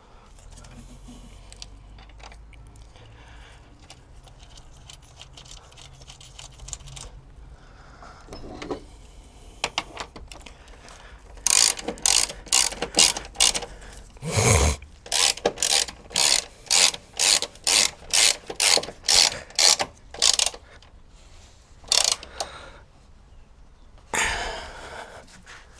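Socket ratchet wrench clicking through a run of quick strokes, about two a second, as the strut brace bolts are tightened. Before that, about eleven seconds of quieter tool handling.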